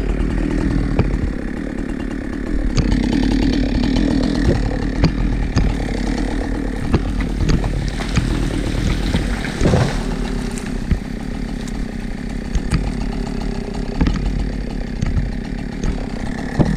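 Two-stroke chainsaw running steadily, its engine pitch wavering up and down as it works.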